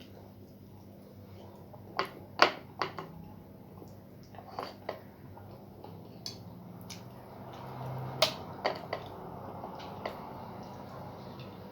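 Eating sounds: a scattering of sharp clicks and smacks, about ten in all. The loudest comes a little past two seconds in, and they are spread out over a low steady background.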